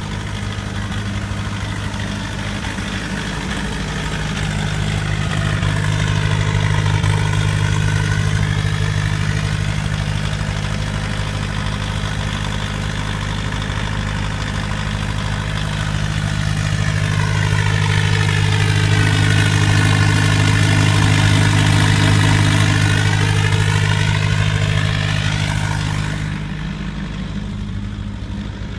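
A 1991 VW Jetta turbo diesel idling steadily just after a cold start, with a tractor-like clatter. The sound swells louder twice and eases off again.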